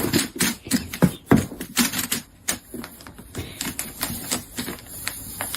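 A rapid, irregular run of sharp clicks and taps, several a second, with a few louder knocks among them.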